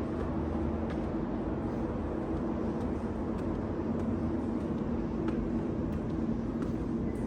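Steady mechanical hum in a metro station, a low rumble with two held low tones, with a few faint ticks scattered through it.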